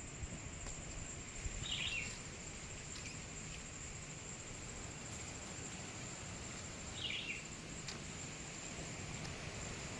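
Steady high-pitched insect drone with two short bird calls about five seconds apart, over a low rumble of wind or mic handling.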